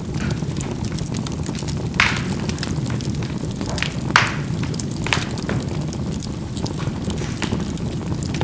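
Charcoal burning in a fireplace: a steady low rumble of the fire with scattered sharp pops and crackles as the embers burst, the loudest about four seconds in.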